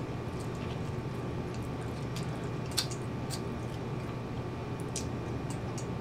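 A person chewing and biting pizza with the mouth close to the microphone: wet, irregular mouth clicks and smacks, one sharper click about three seconds in, over a steady low hum.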